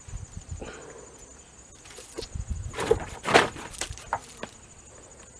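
A few short knocks and clicks, the loudest about three seconds in.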